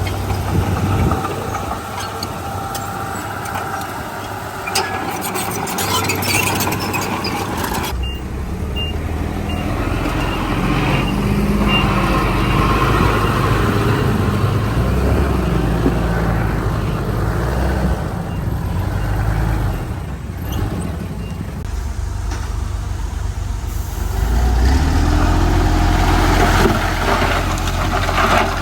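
Diesel engines of a bulldozer and dump trucks working, with the engine note rising and falling under load. A short run of high beeps sounds about 8 seconds in.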